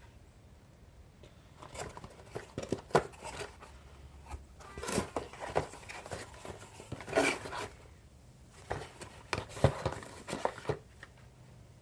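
Small metal tool parts clinking and rattling, with some rustling, as a flaring tool kit is rummaged through and handled, in irregular bursts between short pauses.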